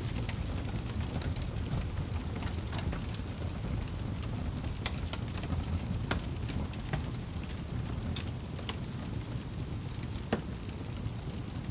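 Wood fire burning in a fireplace: a steady low rumble with irregular sharp crackles and pops, a few louder pops around six and ten seconds in.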